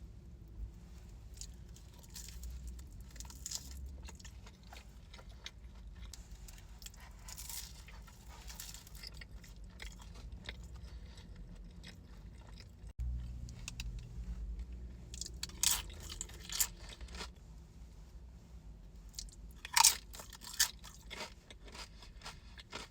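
Close-up chewing and crunching of food, with wet mouth sounds and a few louder crunches in the second half.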